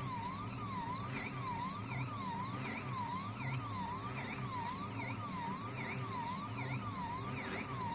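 Stepper motors of a 3D-printed robot arm running as it draws, with a whine that swings up and down in pitch about twice a second, over a low hum.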